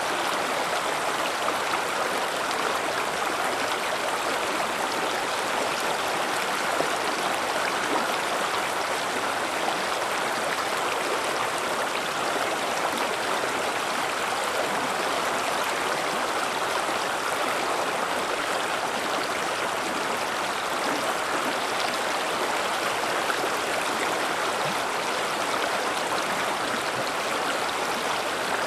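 River water flowing steadily over rocks, a continuous rushing with a faint babble and no pauses.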